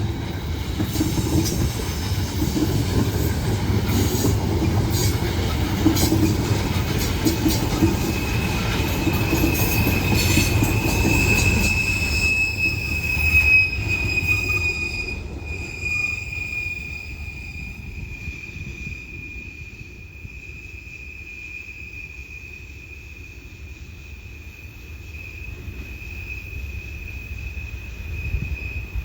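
CSX freight train cars rolling past on a curving mountain grade, wheels rumbling and clicking over the rail with high flange squeal. The train fades away about halfway through, leaving a quieter background with a steady high whine.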